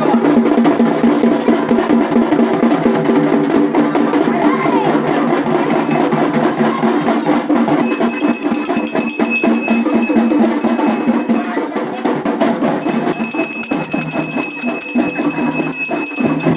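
Loud festival drumming, dense and continuous. A high, steady ringing tone joins it twice, about halfway through and again near the end.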